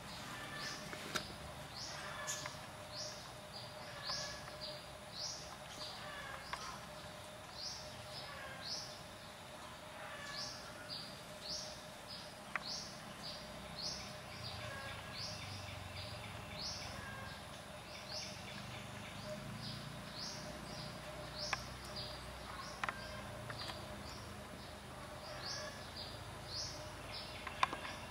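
A bird calling in the forest canopy: short, high chirps that sweep in pitch, about two a second, in runs with short pauses between them, over a faint steady tone.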